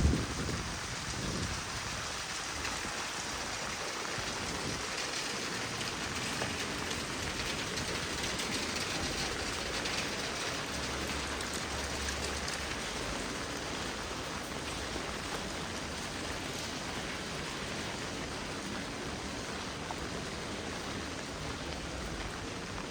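Heavy rain falling steadily, an even hiss, with a brief low rumble about eleven seconds in.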